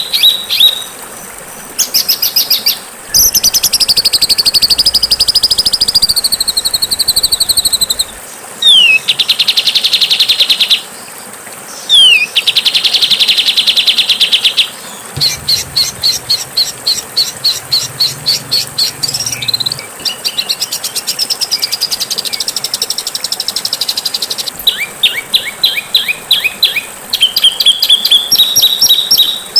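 Caged songbird song from a masteran training compilation: harsh, fast trills, rapid repeated chattering notes and a few whistled downslurs. The phrases switch abruptly every few seconds, as spliced-together songs.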